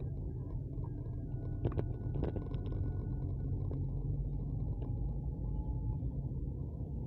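Steady low rumble of a moving vehicle on the road, with a few sharp clicks about two seconds in.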